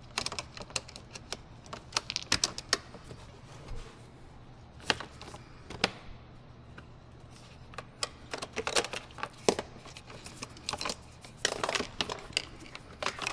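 Irregular sharp clicks and light knocks of a car door latch actuator assembly being handled and fitted into the door, some in quick clusters.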